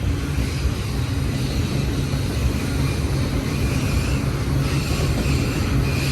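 Union Pacific double-stack container train rolling past, a steady rumble of wheels on rail. A faint high-pitched tone comes in about halfway through.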